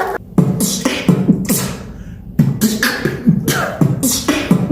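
Vocal beatboxing: a rhythmic beat of deep bass-kick thumps alternating with hissing snare and hi-hat sounds made with the mouth, which thins out briefly about two seconds in before the beat picks up again.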